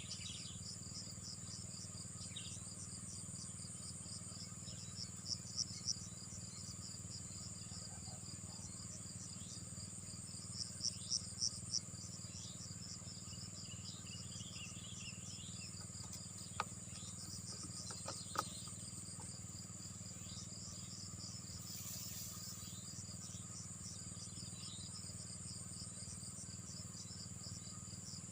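Insects chirping, crickets by the tag: a steady high trill with rapid pulsed chirps, louder in a few short runs. Two sharp clicks come about two-thirds of the way through.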